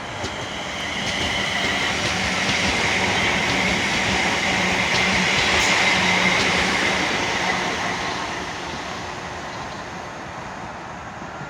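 Class 350 Desiro electric multiple unit passing through the station. The rush of wheels on rail swells to its loudest about halfway through and then fades away, over a steady hum and a few faint clicks.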